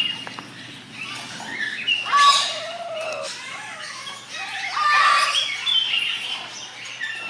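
Pet parrot calling and squawking, in loud bursts with sliding pitch about two seconds in and again about five seconds in, and quieter calls between them.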